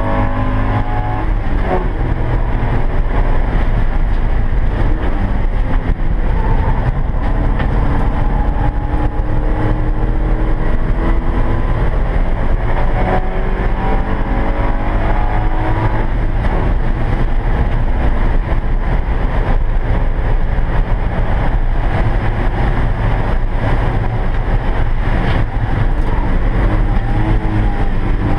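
Porsche 944's four-cylinder engine running hard at race speed, heard from inside the stripped cabin, its pitch rising and falling as the car accelerates and lifts through the corners.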